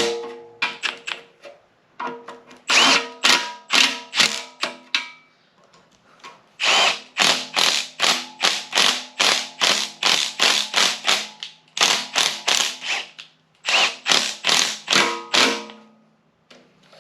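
A hand ratchet clicking in quick runs of about three to four clicks a second, with a short metallic ring after each click and brief pauses between runs, as the oil pan bolts on an LS 6.0 engine are run down.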